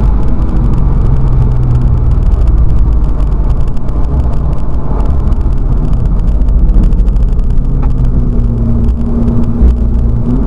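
Volkswagen Scirocco race car driven hard on track: engine and road noise heard from inside the cabin. Near the end the engine note holds steady, then starts to rise.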